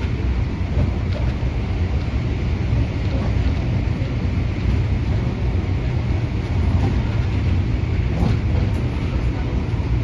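MTR Adtranz-CAF electric multiple unit train running, a steady low rumble with rolling noise over it.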